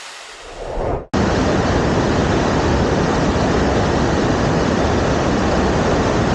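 Waterfall rushing, a steady even noise that cuts in suddenly about a second in.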